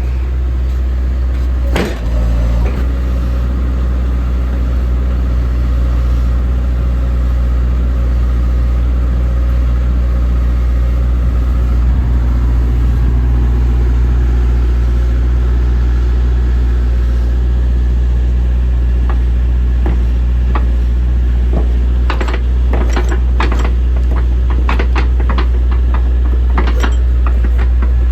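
JCB 65R-1 midi excavator's diesel engine running at a steady idle, with a knock about two seconds in and a run of sharp clacks and knocks near the end.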